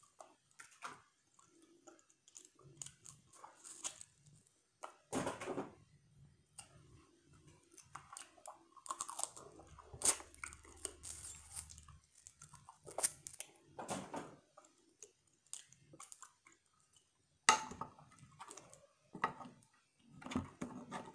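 Chewing of seafood boil, blue crab and shrimp, close to the microphone, with scattered crunches and clicks from picking and breaking the shells and a few louder sharp cracks.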